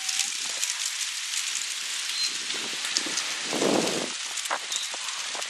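Dust-storm wind blowing with a steady hiss full of small crackles, and a brief louder rush about two-thirds of the way through.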